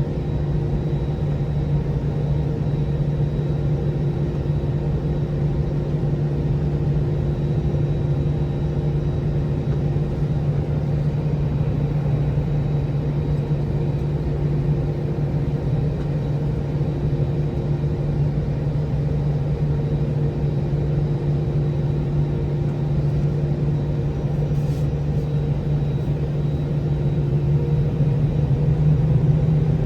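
Cabin sound of an Airbus A321-231 from a window seat: its IAE V2500 jet engines hum steadily over a low rumble, with a few steady tones. Near the end the level and pitch rise slightly.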